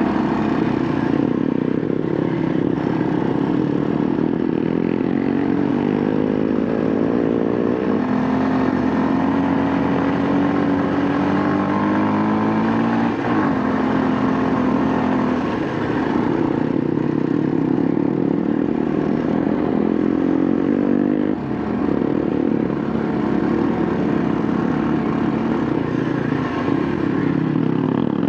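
Kawasaki KLX230's single-cylinder engine pulling uphill under load, its pitch climbing in each gear and dropping back at gear changes several times.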